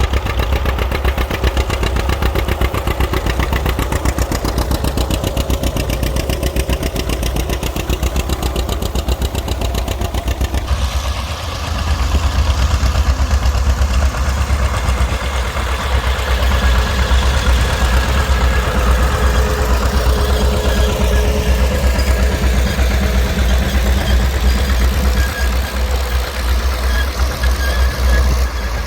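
A farm tractor's engine running steadily, with an even low firing beat. The sound changes abruptly about a third of the way in.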